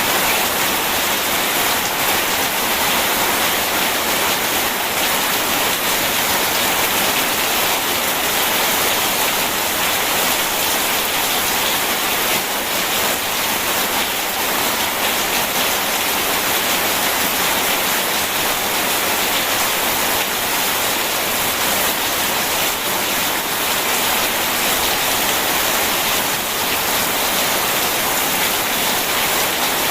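Steady rain, a continuous even hiss of falling water, with no breaks or claps of thunder.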